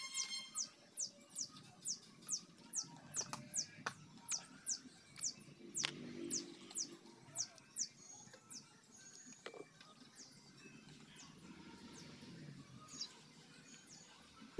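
A bird repeating a thin, high, quickly falling note about three times a second, stopping about eight seconds in.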